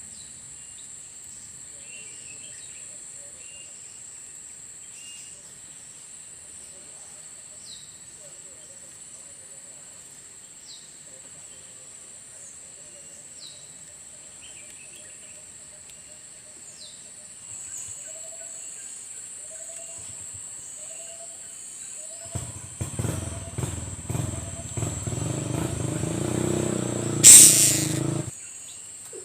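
Countryside ambience: a steady high-pitched insect drone with short, high, falling bird calls every few seconds and a few low hooting notes about two-thirds of the way through. Near the end, loud rumbling noise close to the microphone takes over for several seconds, with one sharp loud knock shortly before it stops.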